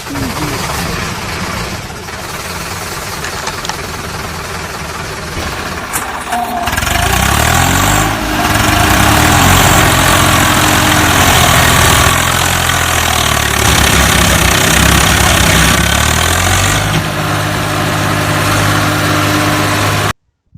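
Tractor engine running rough, then about seven seconds in growing louder as it revs up and down before holding a steady high speed. It cuts off abruptly near the end.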